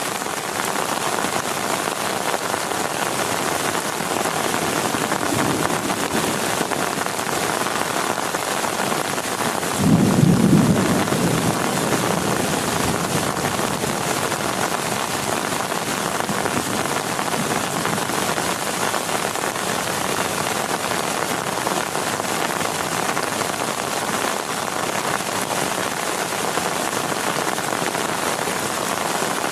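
Heavy rain falling steadily on a tent, with a clap of thunder about ten seconds in that rumbles and fades away over a couple of seconds.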